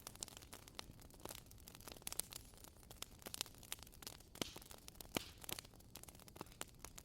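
Wood fire crackling: irregular sharp pops and snaps from burning logs over a soft low hiss.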